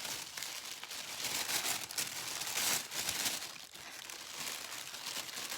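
Paper packaging crinkling and rustling as it is handled and pulled open, in irregular bursts.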